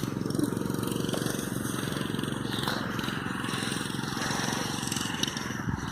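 Mini bike's small engine running steadily as the bike is ridden.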